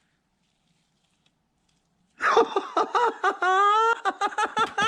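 Near silence for about two seconds, then a man's loud laughing and drawn-out exclaiming in disbelief.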